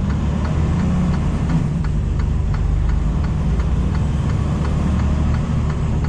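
Semi-truck's diesel engine running steadily inside the cab, with an even ticking repeating a few times a second, typical of the turn-signal relay as the truck turns in.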